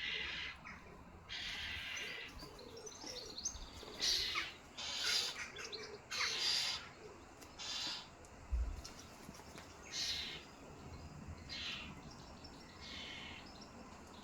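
Wild birds singing, with short high-pitched chirping phrases repeating every second or two.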